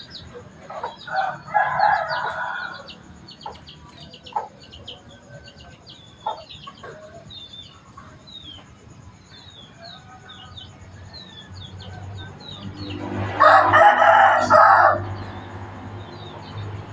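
A rooster crows twice, about a second in and again near the end, the second crow louder. Short high chirps of small birds run throughout.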